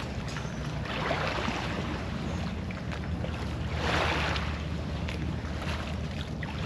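Small lake waves washing against the shore, swelling about a second in and again more strongly about four seconds in, over a low rumble of wind on the microphone.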